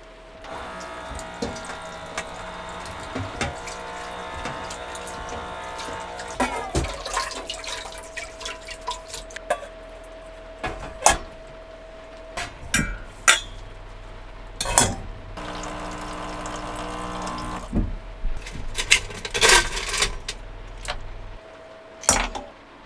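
Water running from a small sink tap, switching on about half a second in and off near the end, with dishes and utensils clinking and knocking throughout.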